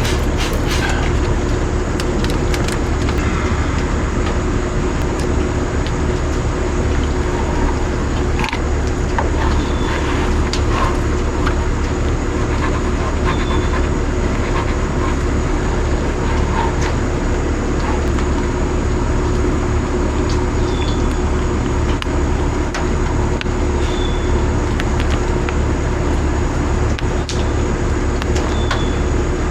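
A steady mechanical drone with a strong low hum and a few fixed tones, unchanging throughout, with scattered light clicks and taps over it.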